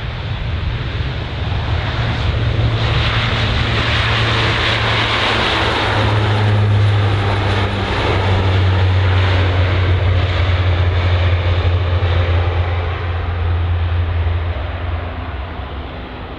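Airliner engines passing close by: a loud rushing noise that swells to a peak a few seconds in, over a low drone that steps down in pitch and fades near the end.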